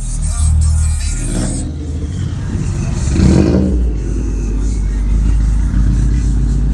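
A car engine revving hard, swelling to its loudest about three seconds in, then running on with a steady low rumble.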